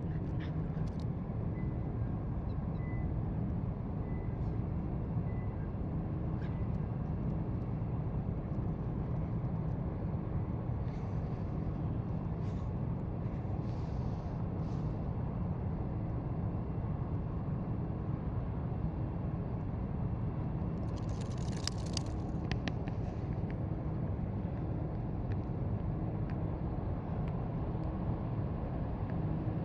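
Steady low outdoor rumble, with a few faint clicks and a brief rustle about two-thirds of the way through.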